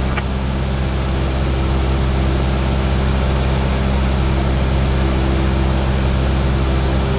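Cessna 172R's four-cylinder Lycoming engine and propeller running steadily in flight, heard inside the cabin: a constant low engine note over an even hiss.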